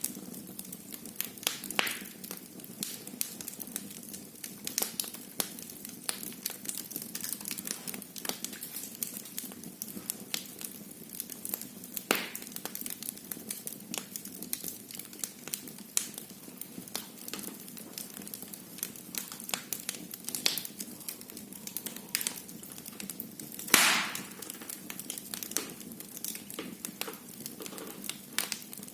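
Wood fire burning in a fireplace, crackling with many small sharp snaps over a low steady hiss, and louder pops about 12 seconds and 24 seconds in.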